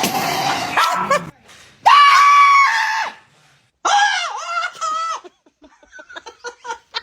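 Three long, high-pitched screams about a second each, followed by a run of short, rapid sounds like snickering laughter.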